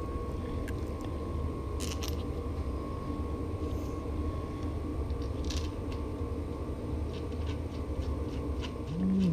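Steady low hum with scattered faint clicks and ticks, as of small bicycle parts and tools being handled on a workbench. Near the end a short pitched sound begins.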